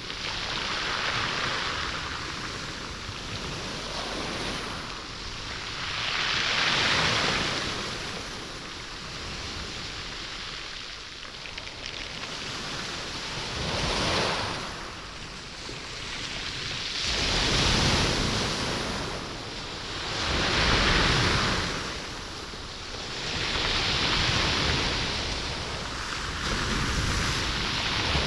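Sea waves washing up a stony beach, the stones rolling and rattling in the surf. Each wash swells and fades every few seconds.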